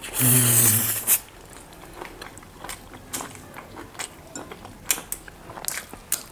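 Close-miked eating of mutton lollipop meat: a loud bite with a brief hum in the first second, then wet chewing with sharp mouth clicks and smacks.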